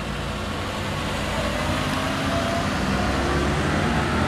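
Car engine running steadily with a low hum, growing slightly louder as the vehicle approaches.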